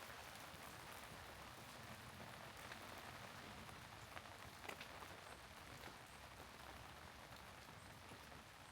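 Faint, steady rain falling, an even hiss with a few individual drops ticking, the clearest a little under five seconds in.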